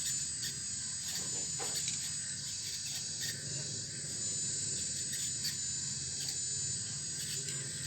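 Full-metal RC hydraulic excavator running, its pump giving a steady high whine over a low hum, with scattered clicks and scrapes as the bucket works through stones and soil.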